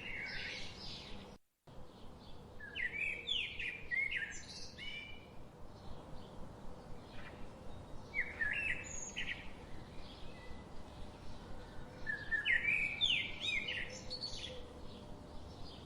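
Songbirds singing short chirping phrases every few seconds over a steady background hiss. The sound briefly cuts to silence about a second and a half in.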